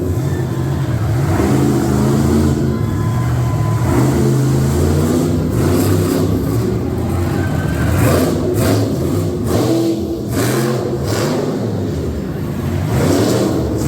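Monster truck engine revving hard, its pitch rising and falling again and again as the truck runs.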